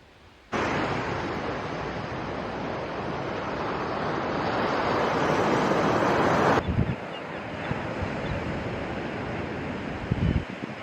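Wind and surf noise that starts suddenly, swells for about six seconds, then cuts abruptly to gustier wind buffeting the microphone with low thumps.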